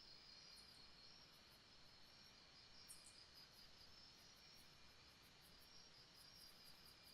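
Faint jungle night ambience: insects trilling steadily in a high, pulsing chorus, with short, very high chirps over it, one a little louder about three seconds in.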